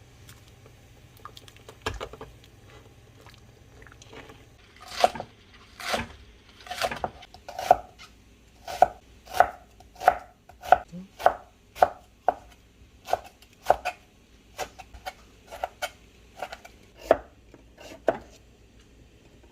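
Kitchen knife chopping on a cutting board: a few light taps, then steady single chops about one a second from about five seconds in, until near the end.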